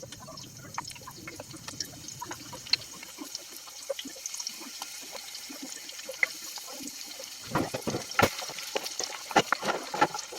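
Onions sizzling in hot olive oil in a frying pan: a steady hiss with many small crackles and pops. A few louder knocks come near the end.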